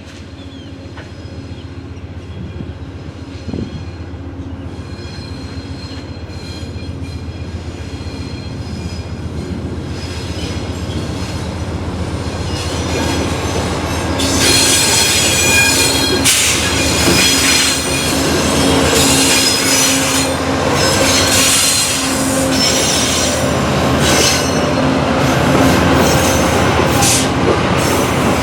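Diesel-hauled train drawing closer: the locomotive's engine hum grows steadily louder. About halfway through, squealing steel wheels and clattering over the rail joints come in and then dominate.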